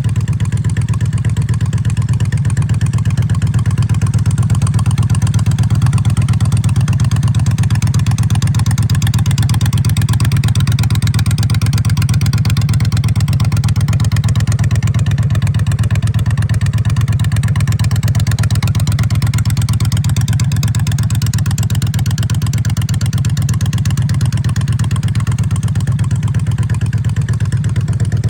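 Honda Shadow bobber's V-twin engine running steadily, with a fast, even exhaust pulse and no revving.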